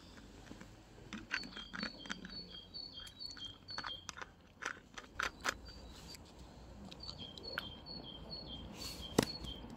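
A songbird singing a repeated two-note phrase, a high note then a slightly lower one, in two runs with a pause between. Scattered short crackles and clicks run underneath, with a sharper knock near the end.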